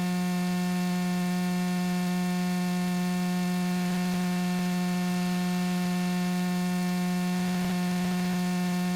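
Steady electrical hum at a single low pitch with a row of overtones, over a faint hiss, on the light aircraft's cockpit intercom audio.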